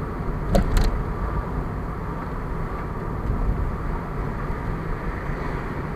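Car driving along a road, a steady low rumble of engine and tyre noise, with two short sharp clicks about half a second in.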